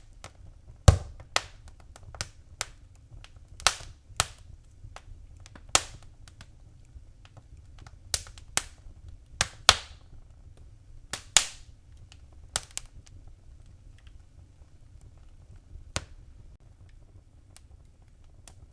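Wood fire crackling in a fireplace: irregular sharp pops and snaps over a low steady rumble, the pops thinning out after about thirteen seconds.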